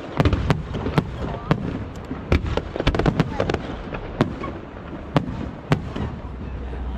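Aerial fireworks bursting overhead: a rapid, irregular string of sharp bangs, several a second at times.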